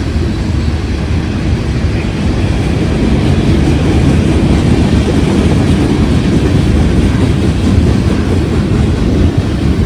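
A train rolling past at close range: a loud, steady rumble of its cars on the rails.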